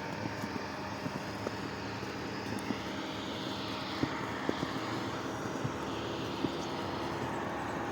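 Steady rushing wind with scattered light clicks, swelling slightly midway.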